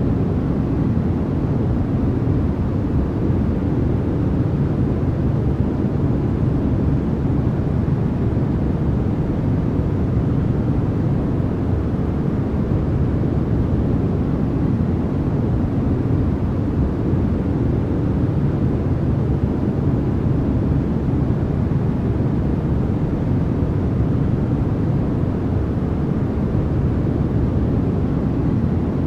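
Steady, unchanging generated noise of the kind sold as white noise, weighted toward the low end so it sounds like a deep even rush rather than a bright hiss.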